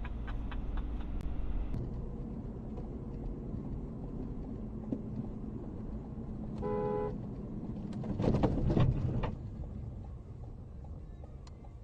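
Car driving, with steady road and engine noise, and a rapid ticking that fades out in the first two seconds. About seven seconds in, a car horn gives a short toot of about half a second. A louder burst of noise with rapid knocks follows about a second later and lasts just over a second.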